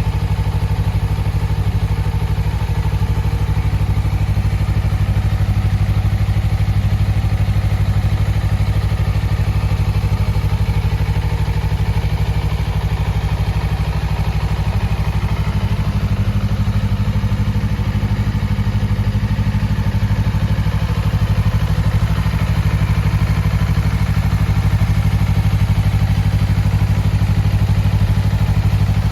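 Honda CBR250RR's parallel-twin engine idling steadily, with no revving.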